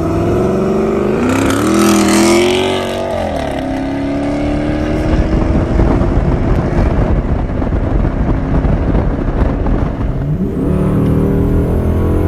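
Straight-piped 2006 Dodge Charger R/T's 5.7-litre Hemi V8 exhaust. It revs up, peaks about two seconds in and falls back, runs steadily through the middle, then rises in pitch again near the end and holds there.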